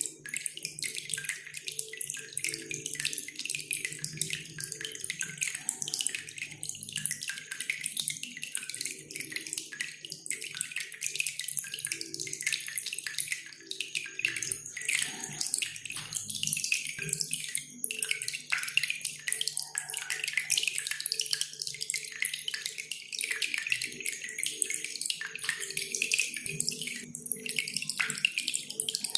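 Cililin songbird twittering in rapid, dense high chirps over steadily dripping and trickling water.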